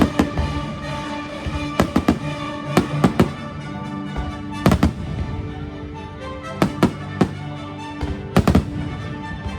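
Fireworks going off in irregular clusters of two or three sharp bangs over a steady music soundtrack, during a fireworks show.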